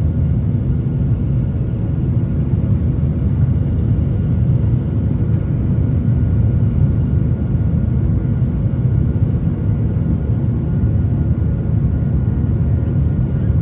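Steady cabin drone of an airliner: jet engine hum and airflow noise, heard from inside the passenger cabin, holding an even level with faint steady tones above the low rumble.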